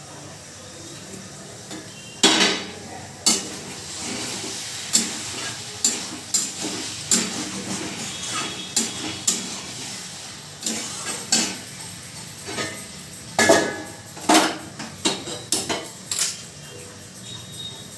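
Dishes and utensils clattering: a run of irregular knocks and clinks of pots, plates and spoons being handled, loudest about two seconds in and again between about thirteen and sixteen seconds.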